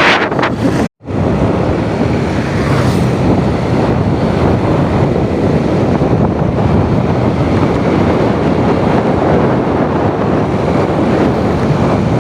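Wind buffeting the microphone as a loud, steady rushing noise with a low rumble, cutting out briefly about a second in.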